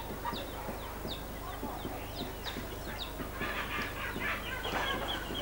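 Birds chirping: short, high, falling chirps repeating about twice a second, with faint voices of people in the background.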